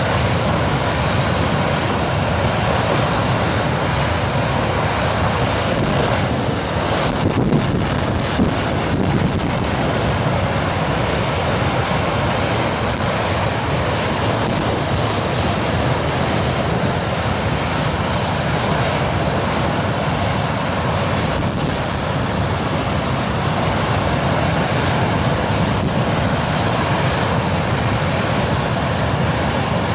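English Electric Lightning's Rolls-Royce Avon turbojet (No1 engine) running steadily on a ground test run, a loud even roar.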